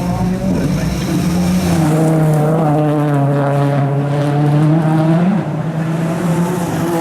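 Ford Fiesta RS WRC rally car's turbocharged four-cylinder engine running hard at fairly steady revs, with a brief rise and drop in pitch about five seconds in.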